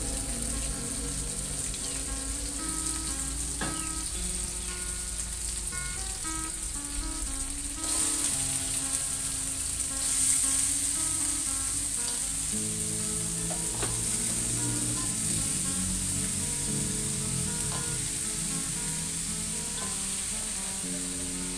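Spice paste frying in oil in a wok, a steady sizzle; about eight and ten seconds in the sizzle flares louder as chopped young jackfruit goes into the hot oil, and a spatula stirs it through.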